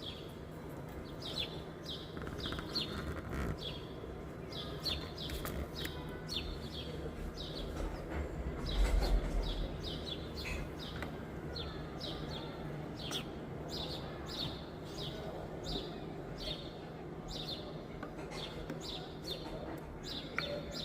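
Small birds chirping: many short, high, falling chirps repeated all through, over a steady low background hum. A brief low rumble comes about nine seconds in.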